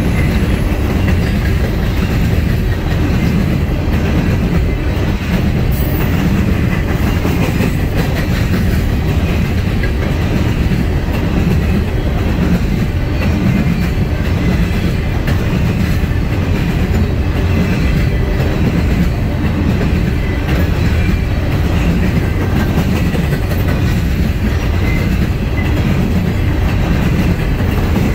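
Empty steel coal cars of a long freight train rolling past: a steady, loud rumble with the clickety-clack of wheels over the rail.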